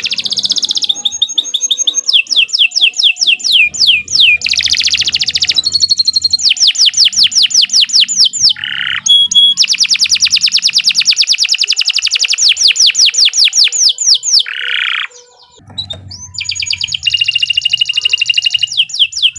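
Canary singing a long, loud, unbroken song: quick runs of falling whistled notes and fast trills and rolls, pausing briefly about fifteen seconds in before carrying on.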